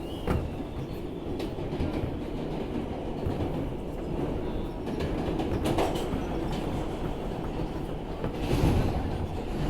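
R160B subway car running through the tunnel, heard inside the car: a steady rumble of steel wheels on the rails with scattered clacks from the rail joints.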